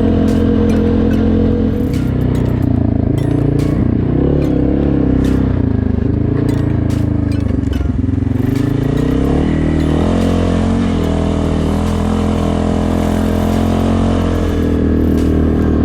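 CFMoto 625 ATV's single-cylinder engine running through an RJWC crossflow aftermarket exhaust. It runs steadily at first, then its pitch rises and falls for several seconds from about two seconds in, before settling into a steady run again.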